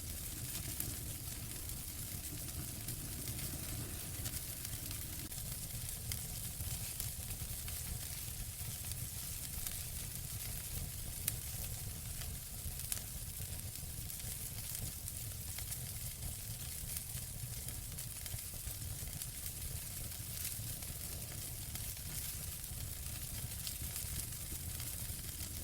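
Wood fire crackling in a fireplace: a steady hiss and low rumble with many small scattered pops, and two sharper pops about 11 and 13 seconds in.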